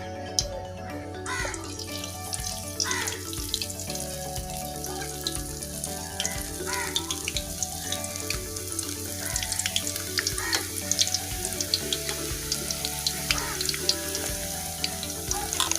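Boondi (drops of gram-flour batter) frying in hot Dalda vanaspati, with a steady sizzling hiss that swells about a second in. Background music plays underneath.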